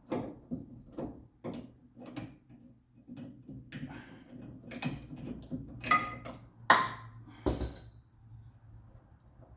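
Hand wrench working a nut loose on a car's steering: a run of sharp metallic clicks about two a second, then quicker clicking, and three louder ringing clinks of steel on steel about six to eight seconds in.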